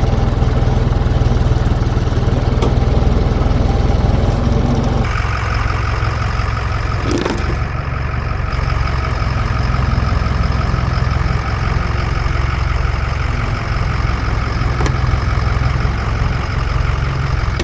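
Truck engine running steadily while the truck tries to drive out of deep mud. About five seconds in the sound changes and a higher whine joins the engine, with a short sharp sound a couple of seconds later.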